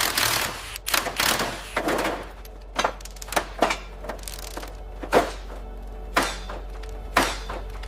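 A series of sharp knocks and thuds at irregular intervals, about one a second, some with a short ring, over a steady low hum.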